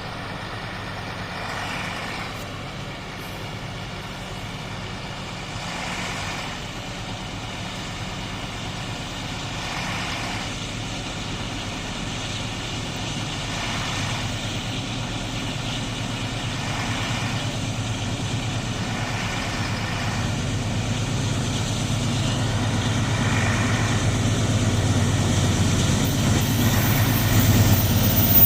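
Diesel-electric locomotives of an empty iron-ore train approaching, a steady low engine drone that grows gradually louder, with a faint swell every few seconds.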